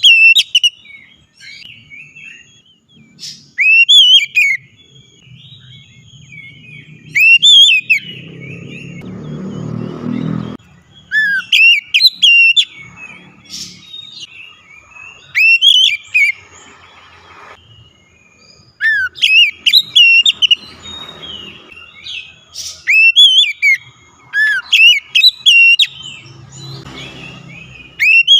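Oriental magpie-robin (kacer) singing loud whistled phrases. Each phrase is a quick run of rising and falling notes, and they come again every second or two. A low rumble builds up about eight seconds in and cuts off a couple of seconds later.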